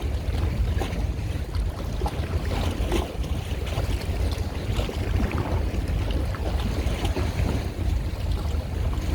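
Wind rumbling steadily on the microphone over the wash of water, with faint scattered ticks.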